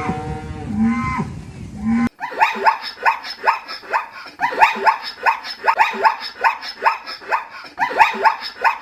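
A cow mooing in low, drawn-out calls, then after an abrupt cut about two seconds in, a rapid run of short, high calls, each falling in pitch, repeated several times a second by a small animal or animals.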